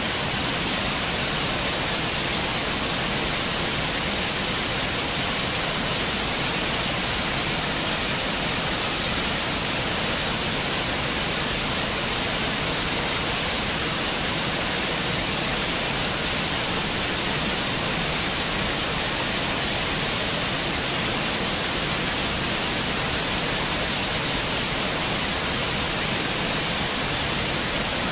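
Flowing water, a stream or small waterfall, giving a steady, unchanging rush with a high hiss running through it.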